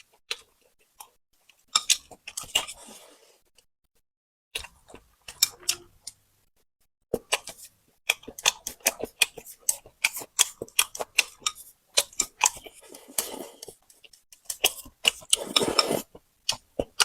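A person eating close to the microphone: bouts of crunching and chewing full of sharp clicks and crackles, with short pauses between bouts.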